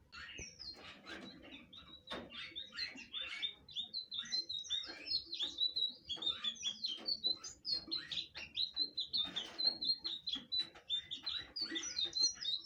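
Blue flycatcher (sikatan biru) singing a fast, continuous twittering song of short, quick notes, many of them hitting the same high pitch again and again. The song gets louder about two seconds in.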